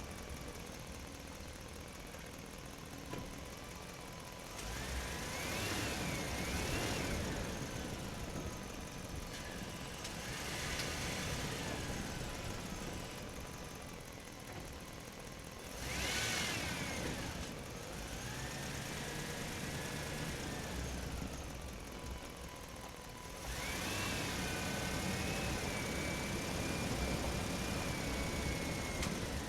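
Toy fire trucks' small electric motors and gears whining, in several spells that rise and fall in pitch.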